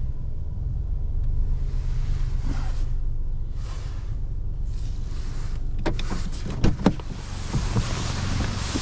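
A 2015 MINI One's 1.2-litre three-cylinder petrol engine idling steadily. A few whooshing swells come partway through, then a cluster of sharp knocks about six to seven seconds in, the loudest sounds here.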